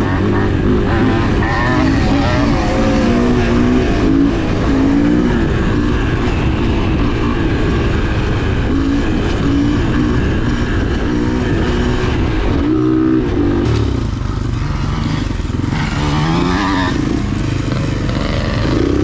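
Dirt bike engine being ridden hard, its pitch rising and falling with throttle and gear changes, with a brief let-off about two-thirds of the way through.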